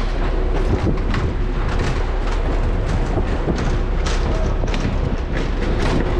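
Wind buffeting the microphone: a heavy, steady low rumble with scattered knocks and crackles through it.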